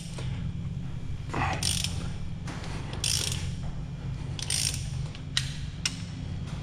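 Hand ratchet clicking in several short runs of strokes as cylinder head bolts are backed out after being cracked loose, over a steady low hum.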